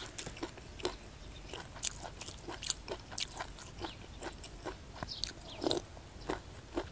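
A person chewing mouthfuls of curried hed thob mushrooms (Astraeus), with many small crunching clicks as the firm mushroom skins are bitten.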